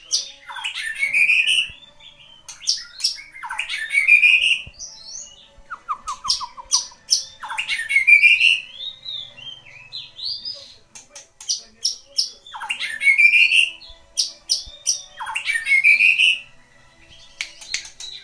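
A bird singing, repeating the same short phrase every two to three seconds: a quick rising sweep surrounded by sharp, high chirps.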